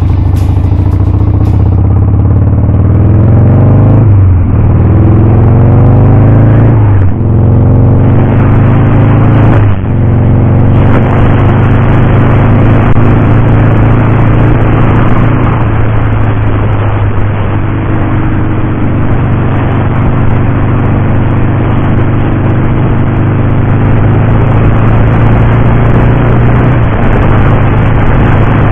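Harley-Davidson Sportster 883's air-cooled V-twin pulling through the gears, its pitch climbing and then dropping at three upshifts in the first ten seconds. It then holds a steady cruising speed, with wind and road noise.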